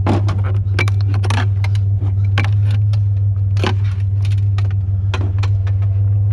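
Light metallic clinks and rattles, about a dozen scattered knocks, as scrap metal parts are handled, over the steady low hum of an idling truck engine.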